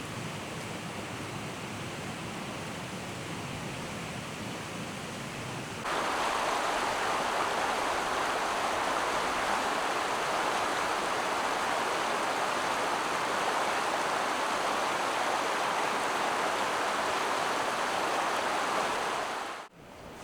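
Steady rushing of running water. About six seconds in it switches abruptly to a louder, brighter rush, which cuts off suddenly near the end.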